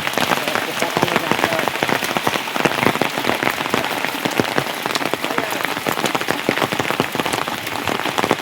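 Steady rain falling, with many separate drops ticking on a surface over a constant hiss.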